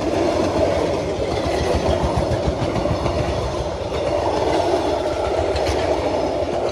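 Steel wheels of passenger coaches rolling past close by on the rails, a steady rolling noise.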